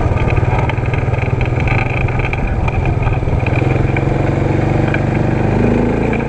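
ATV engine running steadily under way, with some higher engine tones joining in during the second half.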